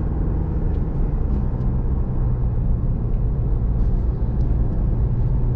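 Diesel vehicle driving at a steady pace: continuous engine drone and road rumble heard from inside the cab, with a few faint small ticks.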